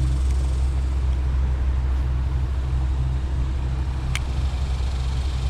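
A steady low rumble, with one short sharp click about four seconds in.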